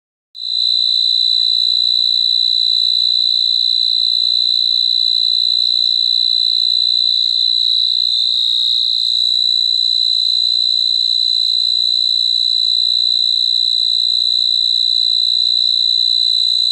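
A cricket trilling: one continuous, loud, high-pitched trill that starts a moment in and holds steady without a break.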